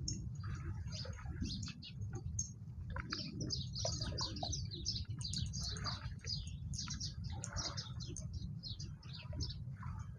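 Small birds chirping and twittering, many quick high chirps overlapping and busiest in the middle, over a steady low rumble.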